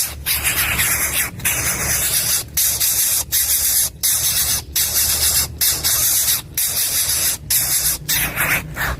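Coucal nestling giving a loud, harsh hissing call, repeated in long rasps with brief breaks about once a second.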